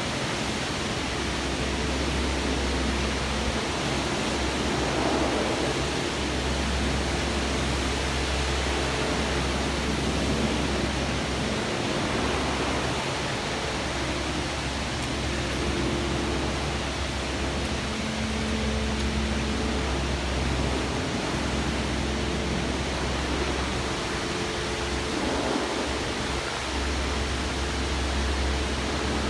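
Pressure washer running: the steady hiss of the water jet spraying over the truck, with the machine's low motor and pump hum underneath that drops out briefly a few times.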